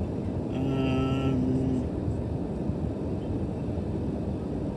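Steady road and engine noise inside a moving car's cabin. About half a second in, a single steady-pitched tone is held for just over a second, then stops.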